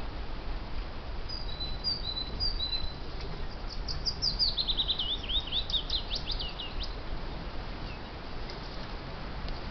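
A songbird singing: a few short high notes about a second in, then a fast run of sweeping high notes from about four to seven seconds. Steady background noise runs beneath the song.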